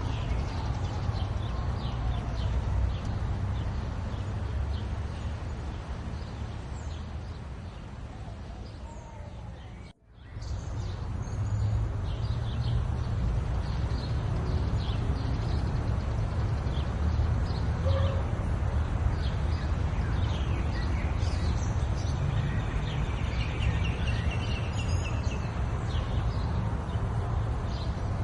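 Small birds chirping with many short, high calls over a steady low rumble. About ten seconds in, the sound fades down, drops out for a moment and comes back.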